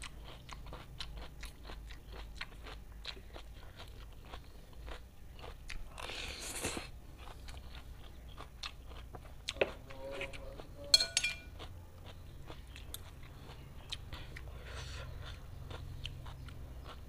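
Close-miked chewing of raw cucumber, a quick run of crisp crunches. About eleven seconds in comes the loudest sound, a few sharp metal clinks with a brief ring, cutlery knocking on the metal tray.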